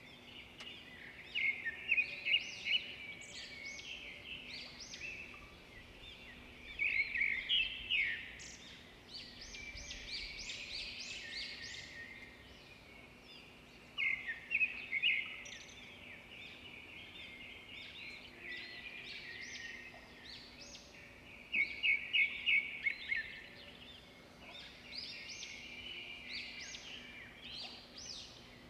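Small birds chirping in repeated bouts of quick, high chirps, each bout lasting a second or two, with pauses of a few seconds between them.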